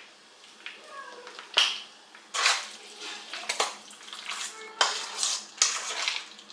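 Kitchen work sounds: a few sharp clinks and knocks of dishes and short gushes of running tap water, with a child's voice faintly in the background.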